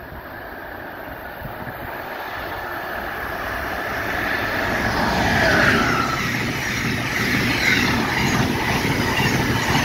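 Amtrak passenger train approaching and passing at speed: a rushing rumble of wheels on rail that grows steadily louder over about five seconds and stays loud as the cars go by.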